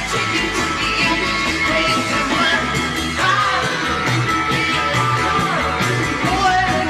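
1960s psychedelic rock recording: a full band playing with a singing voice over a steady beat.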